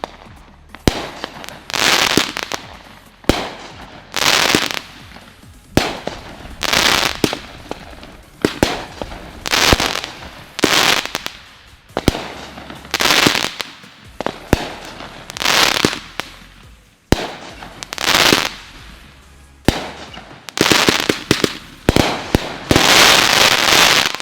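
Consumer 1.4G fireworks firing in steady succession: a loud crackling burst about once a second, each with sharp bangs in it. Background music plays underneath.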